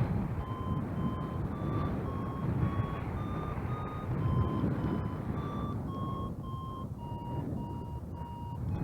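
Flight variometer beeping about twice a second, each short beep shifting slightly in pitch, higher through the middle and lower near the end, as it signals a climb. Under it runs a steady low rumble of wind and paramotor engine.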